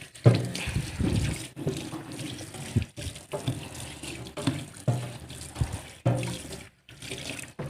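Kitchen tap running into a sink while the sink is washed, water splashing unevenly.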